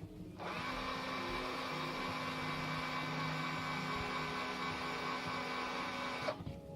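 Hand-held power tool motor running steadily under load for about six seconds, starting and stopping abruptly, as it works on corroded stove-burner screws.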